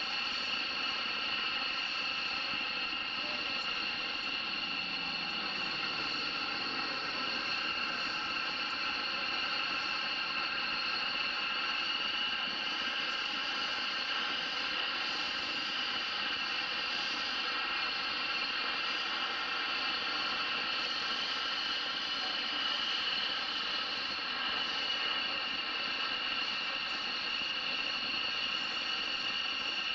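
Aircraft jet engine running steadily with a high-pitched turbine whine that holds one pitch throughout.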